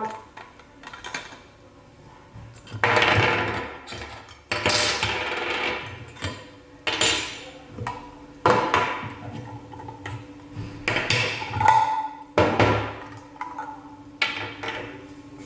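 Parts of a manual meat grinder knocking and scraping as it is handled on a table: a run of irregular clattering, rubbing noises about every second and a half to two seconds.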